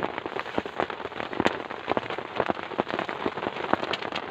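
Heavy rain falling: a dense, irregular patter of separate drops striking close by over a steady hiss.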